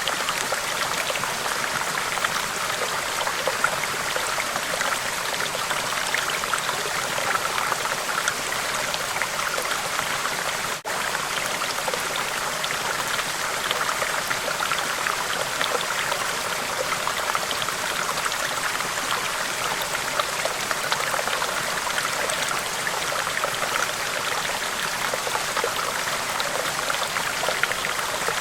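River water rushing and splashing over rocks in a steady, unbroken flow, with a momentary dropout about eleven seconds in.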